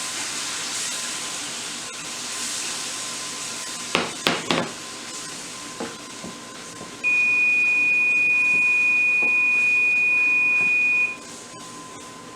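Chicken broth hissing and sizzling in a hot pan of floured mushrooms and butter, fading over the first seconds, with a few quick utensil knocks against the pan about four seconds in. Then a kitchen timer sounds one steady high beep for about four seconds, the loudest sound, signalling the baking chicken's time is up.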